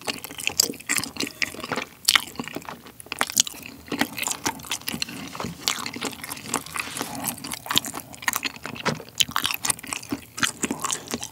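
Close-miked chewing of a rice cake coated in spicy sauce: a dense run of irregular wet, sticky mouth clicks.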